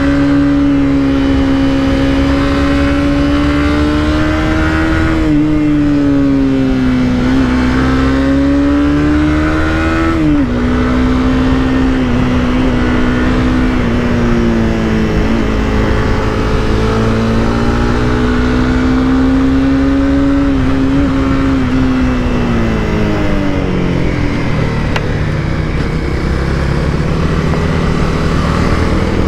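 Honda CBR300R's single-cylinder engine running at steady revs while riding, with a sudden drop in pitch about ten seconds in as it shifts gear, and revs falling away about three quarters of the way through; rushing wind noise underneath.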